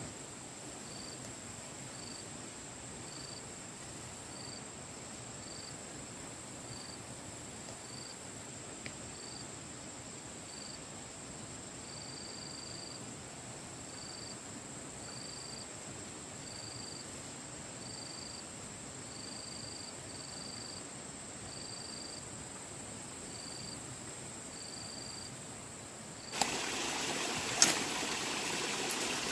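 Insects in the wild: a steady high-pitched buzz, with short chirps repeating a little under once a second over it. About 26 seconds in, it cuts abruptly to the louder rush of flowing water.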